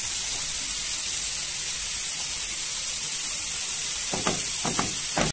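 Sliced button mushrooms sizzling steadily in hot oil in a frying pan, being sautéed until they give off their water.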